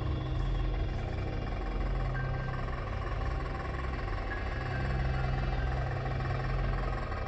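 Brushless outrunner motor and hardened-steel gear drivetrain of a large-scale RC rock crawler running slowly in low gear: a steady low hum with a faint thin whine.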